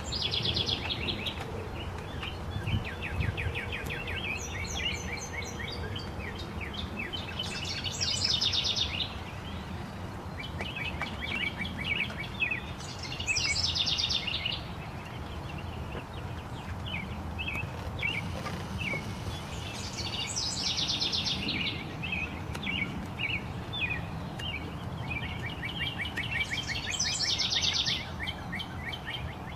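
A songbird singing the same short song over and over, about every five to six seconds: each song a run of quick notes and a higher rapid trill, over a steady low background noise.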